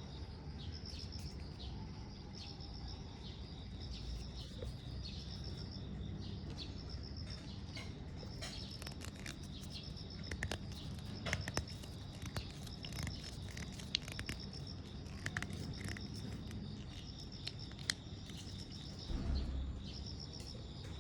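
High-pitched chirping of insects in short pulsed trills, repeated at even spacing over a low steady background hum, with scattered sharp clicks and ticks through the middle.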